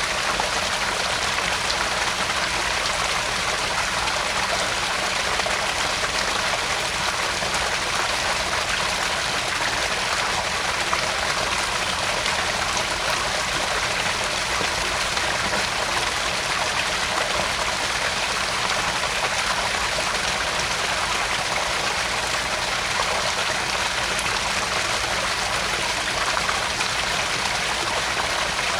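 Small garden-pond waterfall splashing and trickling steadily into the pond.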